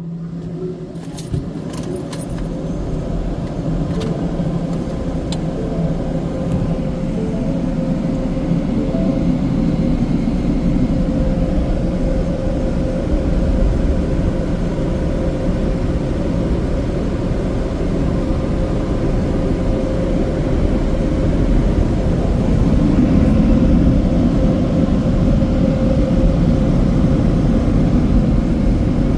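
Istobal M'NEX 22 in-bay automatic car wash running its cycle: a steady rushing noise with a steady hum, growing gradually louder, and a few sharp clicks about a second or two in.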